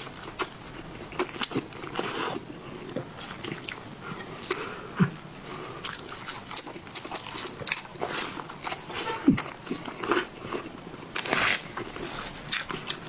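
Close-miked eating: a person biting and chewing food, with many irregular sharp crunches and wet mouth clicks.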